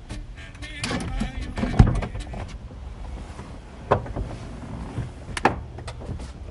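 Several knocks and thuds of handling in a pickup truck's cab, the loudest about two seconds in, with sharper knocks near four and five and a half seconds.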